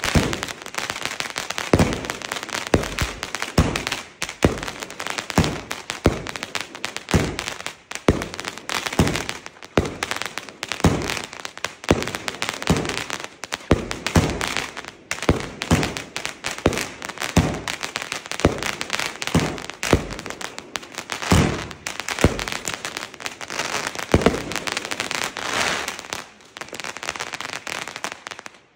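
Funke Chrys-Rain Variations 30 mm firework battery (cake) firing: a rapid string of launch thumps and bursts, about one or two a second, over continuous crackling from its crackler-tipped gold-rain shots.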